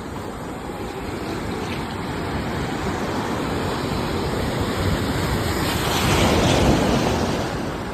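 Sea waves washing ashore in a continuous rushing surf, with one wave swelling louder about six seconds in and then easing off.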